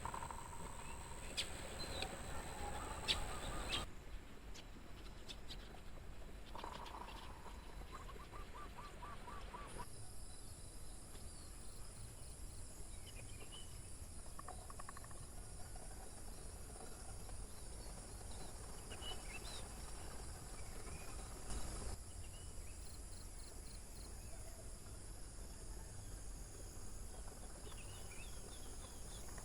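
Crickets and other insects trilling steadily at a high pitch, with scattered short bird calls over them. The insect chorus changes suddenly about 4 seconds in and again about 10 seconds in, becoming a fuller high shrill for the rest.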